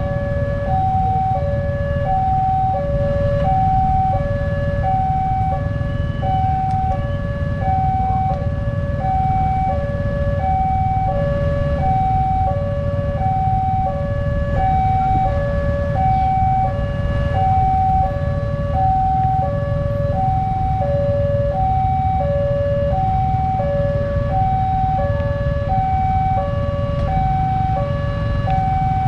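Railway level-crossing warning signal sounding continuously, a higher and a lower electronic tone alternating about twice a second, over a steady low rumble.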